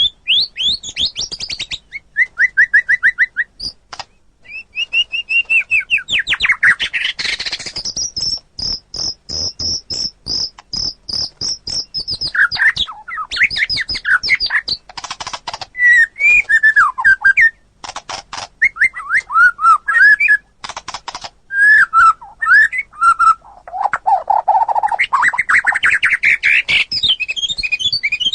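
White-rumped shama (murai batu) singing a loud, varied song: phrases of quickly repeated whistled notes, runs of dry rattling clicks, and swooping whistles.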